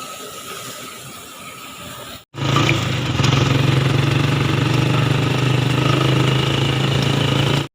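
A quiet hiss gives way, after a sudden cut about two seconds in, to a loud, steady mechanical hum of a running motor or engine.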